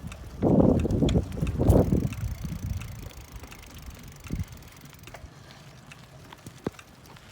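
Bicycle being ridden on pavement: tyres rolling with light rattles and clicks from the bike. Heavy low rumbling on the microphone in the first two seconds, then quieter rolling with scattered sharp clicks.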